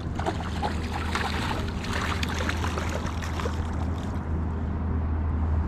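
Creek water running and trickling, with many small splashy ticks that thin out near the end, over a steady low wind rumble on the microphone.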